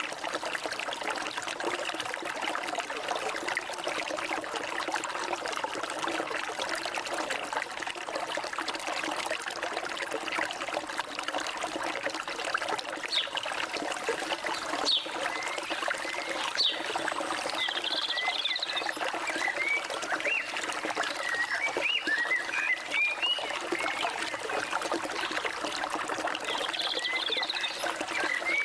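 Flowing stream water trickling and splashing steadily. From about halfway through, birds chirp in short, quick calls that grow more frequent toward the end.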